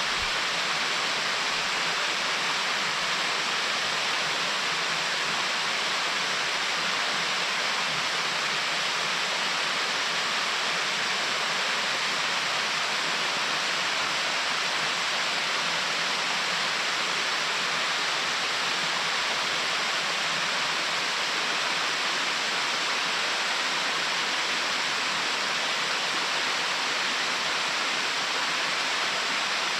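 Mountain stream water pouring over a check dam: a steady, even rush of falling and splashing water, bright and hissy with little low rumble, unchanging throughout.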